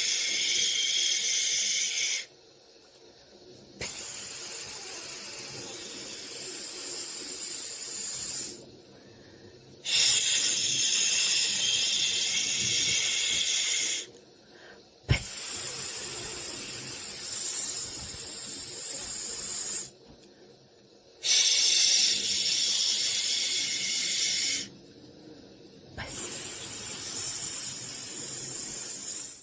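A person shushing a baby: long, high-pitched 'shhh' sounds of about four to five seconds each, broken by short pauses for breath, repeated six times.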